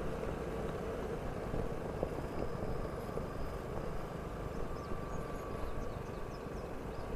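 Vespa scooter engine running steadily at low speed, a steady low rumble with a faint hum.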